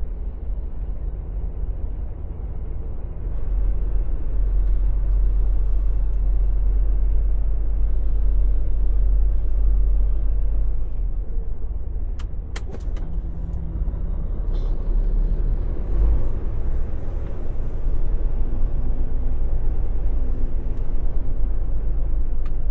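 Semi-truck diesel engine running while the tractor-trailer is maneuvered at low speed, a steady low rumble that picks up a little about three seconds in. A couple of sharp clicks about twelve seconds in.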